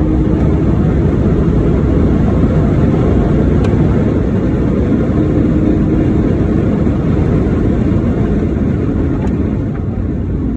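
Porsche Cayman S (987) 3.4-litre flat-six running at speed, heard from inside the cabin along with heavy road and wind noise. The sound gets slightly quieter near the end.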